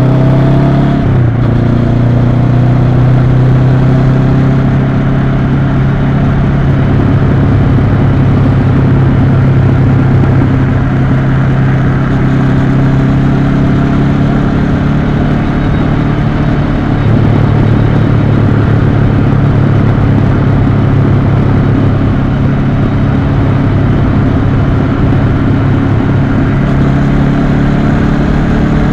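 2022 Honda CB500X's parallel-twin engine running steadily under way, over a constant rush of wind and road noise. The engine note changes about a second in and again about halfway through.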